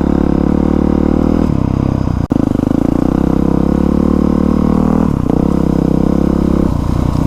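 Dirt bike engine running at fairly steady throttle, its pitch stepping between a few settings, with a very brief break a little over two seconds in.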